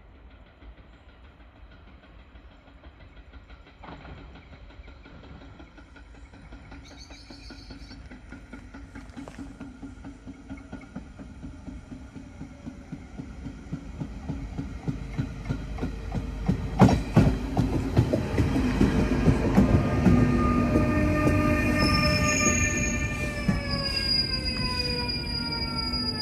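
Passenger train approaching and running past the platform: a rumble that grows steadily louder, wheel clatter about two thirds of the way in, then several whining tones falling in pitch and a high wheel squeal near the end.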